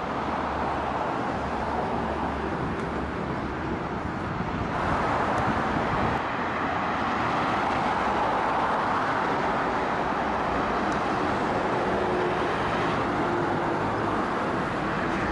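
Steady outdoor rushing noise without clear events, of the kind road traffic or surf makes; it grows somewhat louder about five seconds in.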